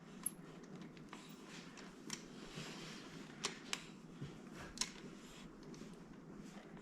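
Faint, scattered clicks and taps of hand work: epoxy being squeezed from its tube with a big C-clamp rigged up in place of a failed caulking gun.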